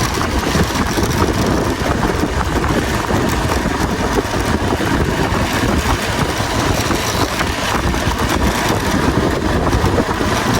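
A vehicle engine runs steadily through a newly fitted exhaust.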